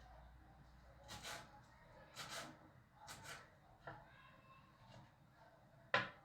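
Faint handling sounds: a few short rustles roughly a second apart, a small tap, then one sharp click near the end.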